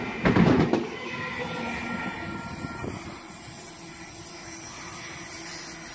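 Sydney Trains OSCAR (H-set) electric multiple unit running through the station without stopping. It is loud for the first second, then fades steadily as it moves away, with thin, steady wheel-squeal tones.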